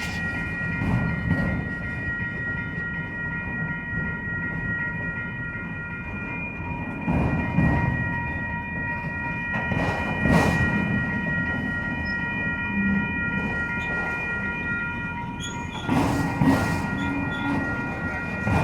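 Norfolk Southern freight train cars rolling past, with a steady rumble and a loud clack of wheels over rail joints every few seconds. A steady high-pitched whine runs on over the rumble.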